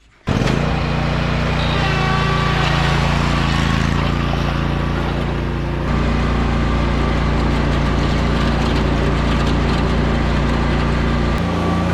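Zero-turn lawn mower engine running steadily, its tone shifting about six seconds in and again near the end.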